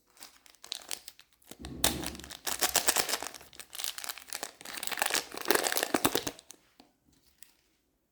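Fire crackling: a dense run of sharp pops and crinkles that starts about a second and a half in, lasts about five seconds and dies away.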